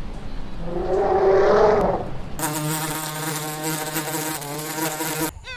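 Flying insect buzzing: a wavering buzz for about two seconds, then a louder, steady, even-pitched drone that cuts off suddenly near the end.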